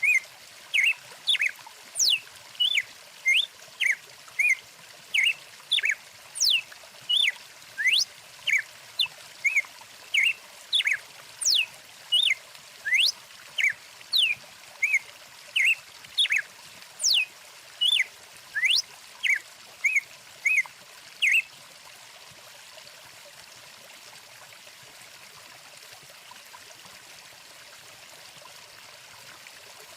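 A bird repeating short, sweeping chirps a little more than once a second over the steady rush of a flowing stream. The calls stop about two-thirds of the way through, leaving only the water.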